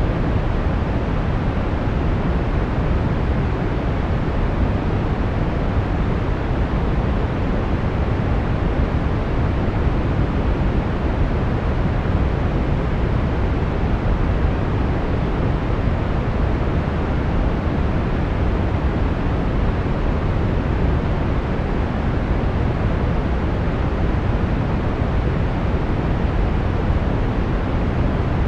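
Steady brown noise: an even, unchanging rushing hiss weighted heavily toward the low end, with little above the treble.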